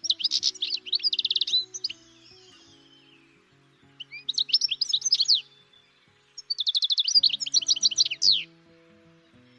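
A songbird singing in three bursts of rapid chirping phrases: one at the start, one about four seconds in, and a longer one from about six and a half to eight and a half seconds. Background music plays quietly underneath.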